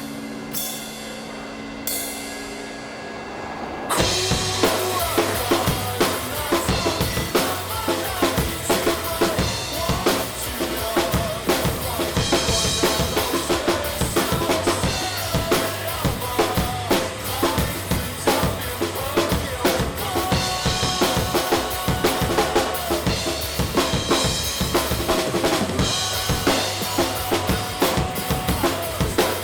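Drum kit played along with a rock song. For the first few seconds a held chord rings out. About four seconds in, the full kit comes in loud with kick, snare and cymbals in a steady driving beat under the band.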